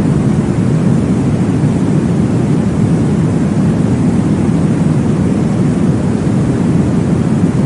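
Sleep-aid noise track: a steady, deep whooshing hiss with most of its weight in the bass, unchanging and with no audible beat.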